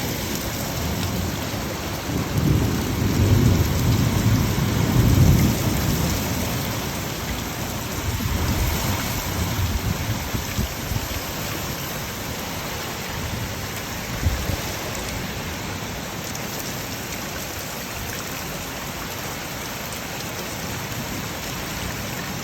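Heavy rain pouring down in a severe thunderstorm, with a long low rumble of thunder swelling a couple of seconds in and a weaker rumble a few seconds later.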